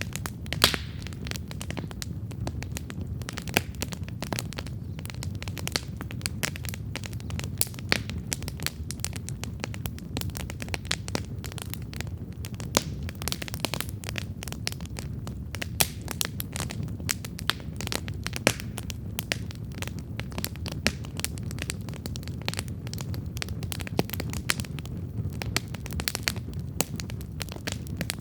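Wood campfire burning: a steady low rumble of flames with frequent irregular crackles and sharp pops.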